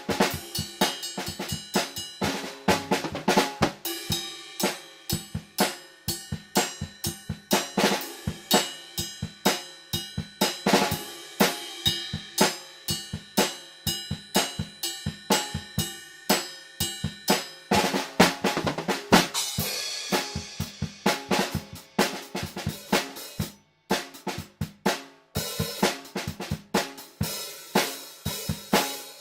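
Acoustic drum kit played freely, unprocessed: dense, irregular snare strokes, rolls and rimshots over bass drum, with cymbals ringing. The playing stops briefly about 23 seconds in, then picks up again.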